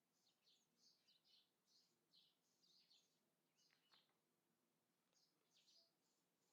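Faint birdsong: many short, high chirps several times a second, with one longer note sweeping downward about four seconds in.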